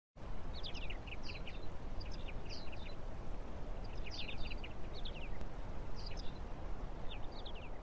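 Birds chirping: short runs of quick, falling high notes about once a second, over a steady low background rumble.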